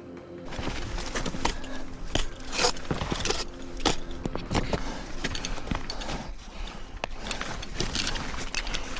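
Ice-climbing gear at work: a dense run of sharp knocks and scrapes with metal clinking and jangling, as ice tools, crampons and ice screws strike and scrape the frozen waterfall ice. It starts suddenly about half a second in.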